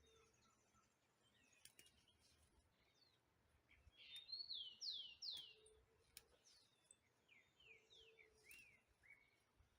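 Faint birdsong: a few clear falling notes about four seconds in, then a run of shorter falling notes near the end.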